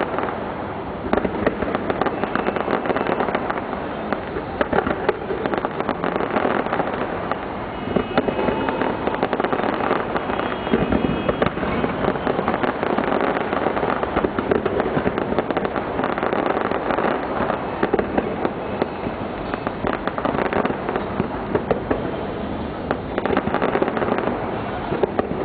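A fireworks display going off without pause, a dense run of rapid cracks and bangs, over a crowd's voices.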